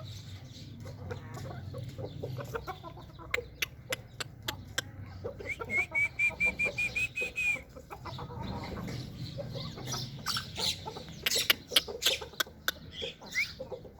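Aseel chickens clucking, with scattered sharp clicks. Midway there is a quick run of about ten short, high chirps.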